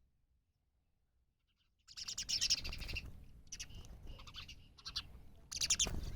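Small bird chirping in three quick, high-pitched bursts of rapid notes, starting about two seconds in after a near-silent pause.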